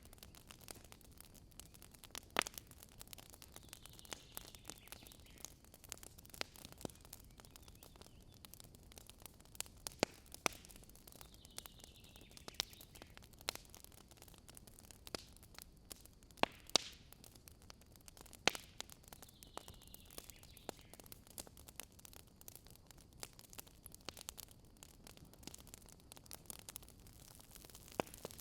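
Wood campfire crackling, with irregular sharp pops and snaps over a low, steady burning hiss.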